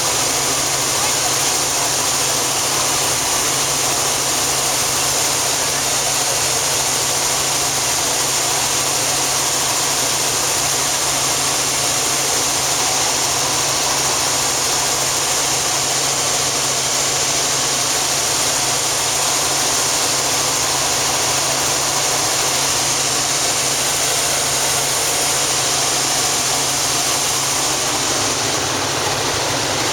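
Helicopter engine and rotor running steadily, a loud unchanging drone with a strong high hiss over a low hum.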